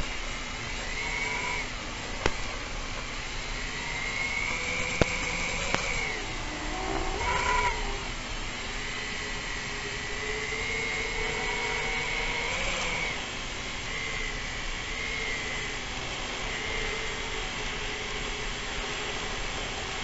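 FPV racing quadcopter's motors whining, the pitch rising and falling with the throttle, with a few sharp clicks.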